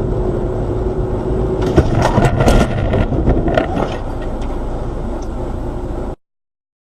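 Vehicle road and engine noise picked up by a dashcam, with a quick cluster of sharp knocks and bangs about two seconds in and a few more a second later. The sound cuts off abruptly about six seconds in.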